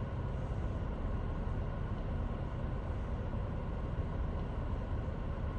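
Steady low rumble of an idling vehicle engine in stopped traffic.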